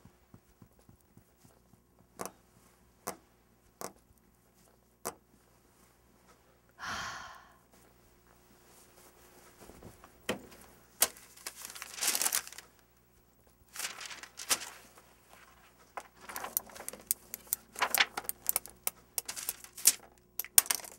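Handling noises: a few single clicks, a short creak about seven seconds in, then crinkling and tearing sounds that grow busier toward the end.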